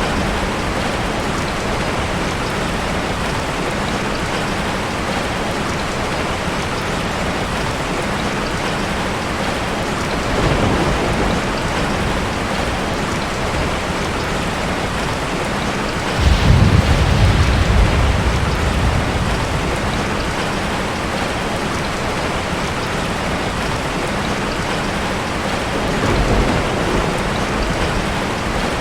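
Steady rain with a continuous hiss, and low rolls of thunder: a faint one about ten seconds in, a louder one lasting about two seconds just past the middle, and another faint one near the end.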